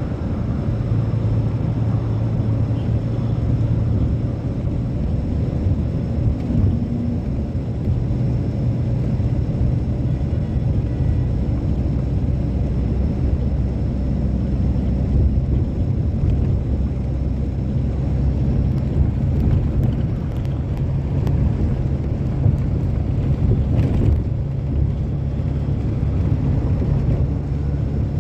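Passenger train running steadily, heard from inside the coach: a continuous low rumble of wheels on the track.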